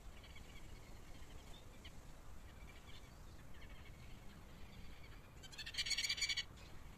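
Wild birds calling faintly and intermittently, then a loud, rapid run of high notes lasting about a second, near the end.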